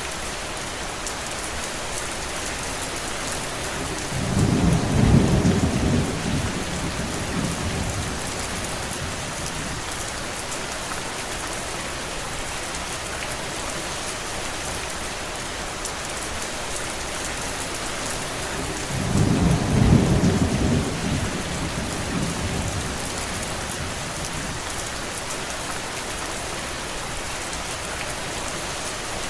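Steady heavy rain, with two low rolls of thunder: one about four seconds in, the other some fifteen seconds later, each swelling and fading over a few seconds.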